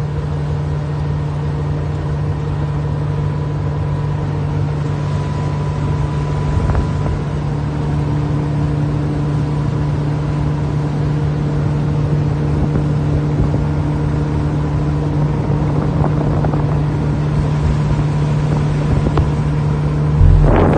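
Baja offshore powerboat's Mercury 496 big-block V8 sterndrive running at a steady speed, a constant, unchanging drone over rushing wind and water noise.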